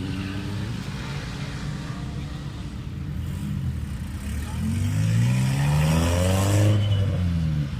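A car engine accelerating: a steady engine note, then from about halfway the revs climb and it gets louder, with the pitch dropping away near the end as the car goes past.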